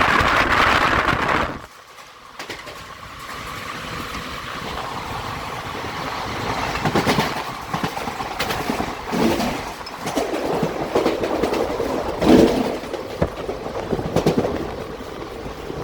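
Express train running through a station at speed without stopping: a loud rush that drops away sharply about two seconds in, then the coaches' wheels rumbling and clattering over rail joints in irregular bursts.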